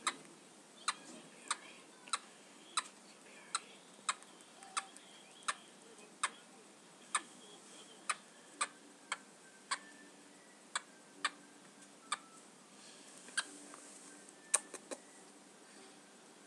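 Pet rat making a string of sharp, short clicking noises, about one every two-thirds of a second, with the clicks coming less often and a quick double click near the end.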